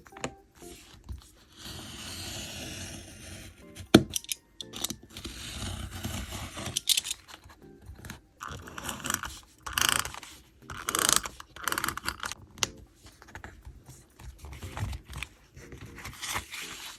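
Hands working stationery on a diary page: scratchy rustles of paper and tape with a string of sharp clicks, the loudest click about four seconds in.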